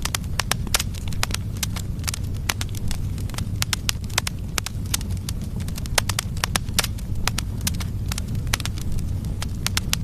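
Firewood logs burning in a fireplace: many sharp, irregular crackles and pops, several a second, over a steady low rumble of the flames.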